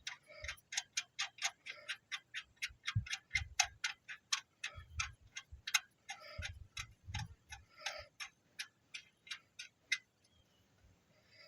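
Hand ratchet wrench clicking through quick strokes, about three or four clicks a second, with some tool and parts handling among them; the clicking stops near the end.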